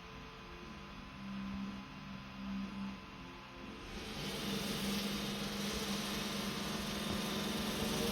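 Robot vacuum running: a steady motor hum, joined about four seconds in by a louder hissing whir.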